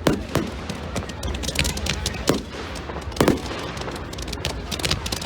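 Fireworks going off: a string of sharp bangs and crackles at irregular intervals over a steady low rumble, the loudest pair about three seconds in.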